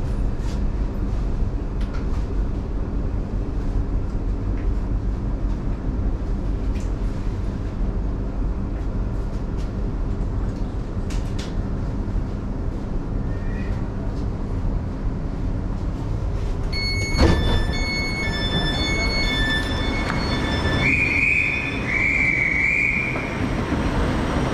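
Class 717 electric train's steady low running rumble as it comes into the terminus. About two-thirds of the way through there is a sharp knock, then a run of pulsing high door beeps as the doors are released and open, followed by two short high-pitched tones.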